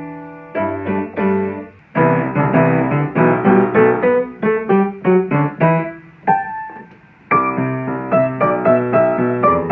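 Solo piano playing a brisk melody over chords: a held chord dies away at the start, then quick runs of notes, a short lull about six seconds in, and full playing again from about seven seconds.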